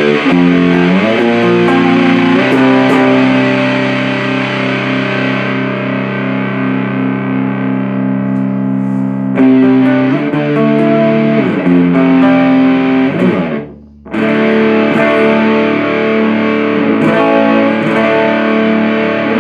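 Electric guitar played through a 77 Fuzz Blender fuzz pedal into an Orange Super Crush 100 amp: heavily distorted held chords with several sliding notes. It cuts out briefly about two-thirds of the way through, then resumes.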